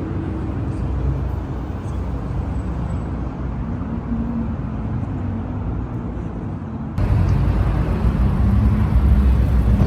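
Car engines idling with a steady low drone. About seven seconds in, the sound jumps suddenly to a louder engine note.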